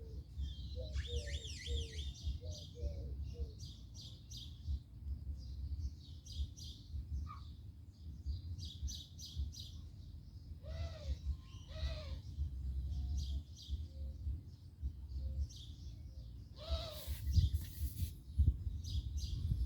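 Several wild birds chirping and calling: quick high chirps throughout, a run of repeated lower notes in the first few seconds, and a few harsher calls later on. A steady low rumble runs underneath.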